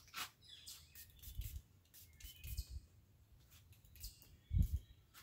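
Small birds chirping now and then, with faint clicks and a few dull low thumps of handling noise, the loudest about four and a half seconds in.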